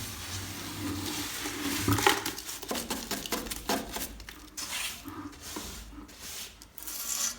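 Scraping, rustling and light knocks of things being taken out of a fireplace as it is cleaned out, irregular throughout and stopping abruptly at the end.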